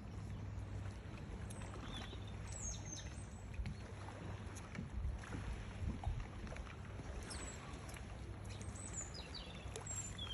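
Small birds chirping in short, quick falling calls, several times, over a steady low hum.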